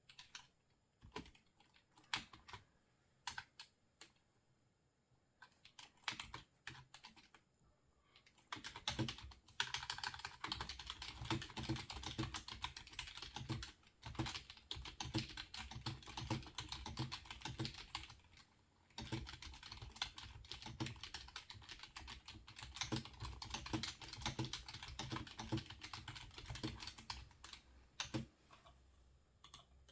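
Typing on a computer keyboard: a few scattered keystrokes or clicks at first, then fast, continuous typing from about nine seconds in, with a brief pause around the middle, thinning out near the end.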